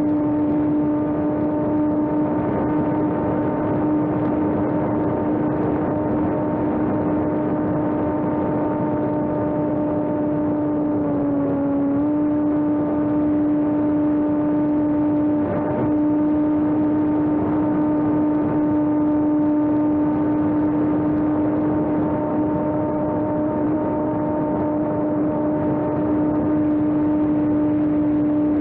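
Homemade electric RC airplane's motor and propeller running at a steady pitch, a constant whine over rushing wind noise. The pitch dips briefly about eleven seconds in, then recovers.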